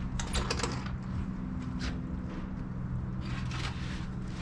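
Smoker door and rack being handled to get at the foil-wrapped ribs: a few short scrapes and rattles, over a steady low hum.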